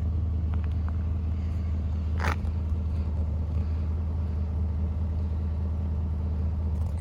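Pickup truck engine idling with a steady low drone. There is a brief sharper noise about two seconds in.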